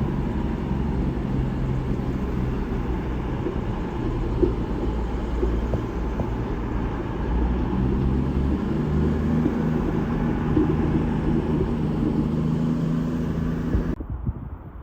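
A vehicle's engine running with a steady low drone and road or rail noise; the drone shifts in pitch about halfway through. It cuts off abruptly near the end.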